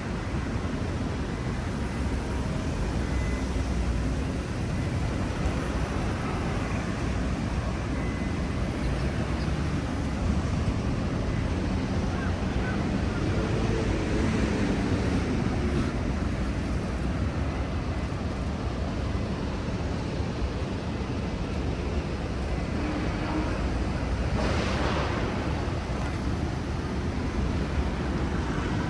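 Steady city street ambience, a wash of passing traffic, with a short hiss of a passing vehicle near the end.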